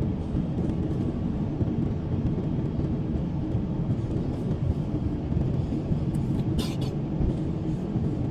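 Steady low rumble inside the cabin of an Airbus A350-900 taxiing to the runway, from its Rolls-Royce Trent XWB engines at taxi power and the wheels rolling on the taxiway.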